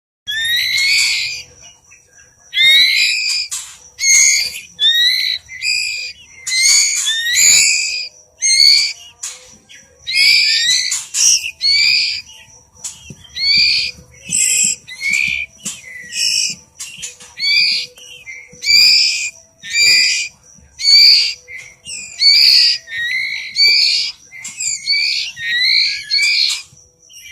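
A murai chick begging loudly over and over while it is hand-fed: short high-pitched calls about one a second, each sweeping upward in pitch.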